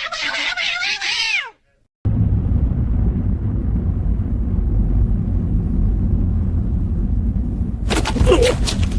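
A cat meowing: one drawn-out meow that bends in pitch and falls away at its end, about a second and a half long. After a short gap, a steady low rumble runs on, with a few sharp clicks and knocks near the end.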